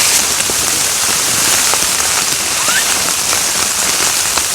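Rain mixed with snow falling steadily on a surface close by: a dense, even hiss scattered with small ticks.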